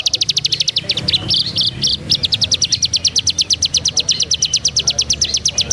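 A songbird singing a rapid, even trill of high notes, about ten a second, broken by a few varied notes about a second in before the trill resumes and stops abruptly near the end.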